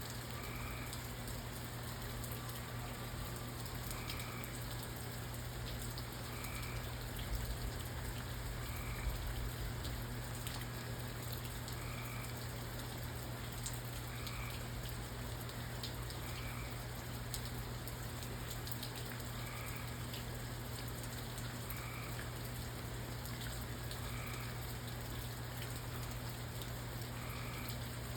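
Steady rain falling, with a frog giving a short call every two seconds or so through it.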